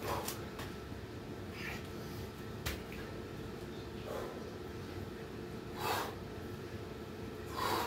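A man breathing hard between burpee reps, with a forceful exhalation every second or two, and a single sharp knock about three seconds in.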